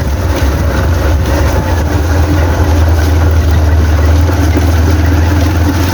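Motorcycle running at a steady pace while being ridden along a road. The engine and road noise are loud and even throughout.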